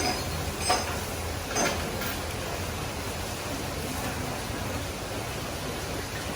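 A spoon clinks against a bowl twice, about a second apart, during eating, over a steady background hiss and hum.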